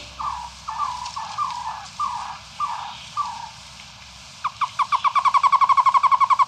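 A bird calling: a series of downward-slurred whistled notes about two a second, then, a little past halfway, a fast trill of short notes that speeds up.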